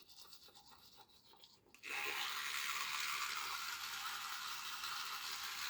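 Teeth being brushed with a toothbrush: a steady scrubbing hiss that starts about two seconds in, after a few faint soft sounds.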